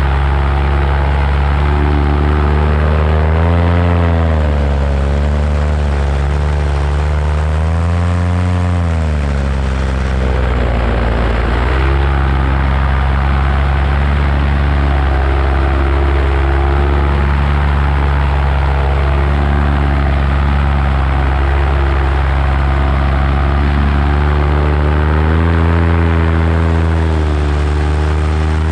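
Paramotor engine and propeller running steadily in flight. Its pitch swells up and back down twice in the first ten seconds, dips briefly at about eleven seconds, then swells again near the end as the throttle is worked.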